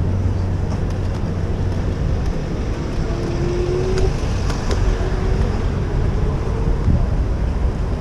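Steady city street traffic noise with vehicle engines, heard from a moving bicycle. A faint humming tone comes in about three seconds in and fades near the end.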